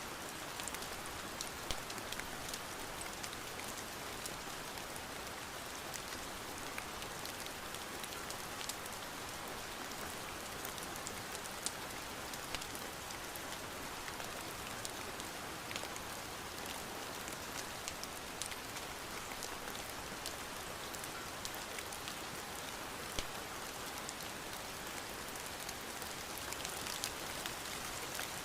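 Steady rain falling, an even hiss dotted with scattered sharp ticks of drops striking a surface.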